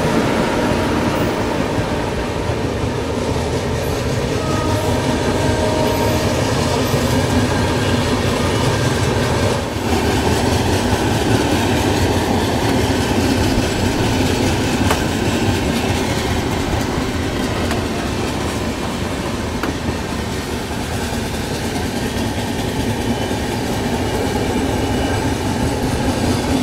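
Sanghamitra Express passenger train running at speed, heard from beside the coach: a steady rumble of wheels on the rails and rushing air.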